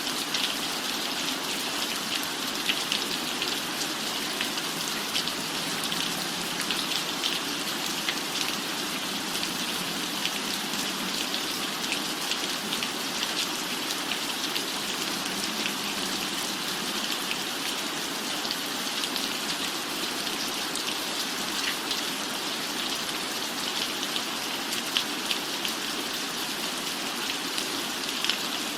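Steady rain falling on a cabin roof, an even hiss with many small drop ticks scattered through it.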